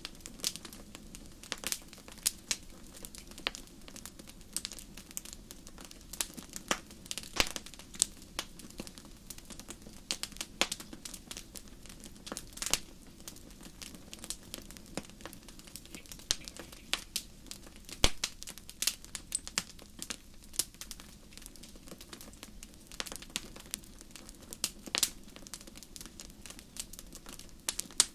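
Wood fire crackling in a fireplace: a steady low hiss with irregular sharp pops and snaps, several loud single pops among many small ones.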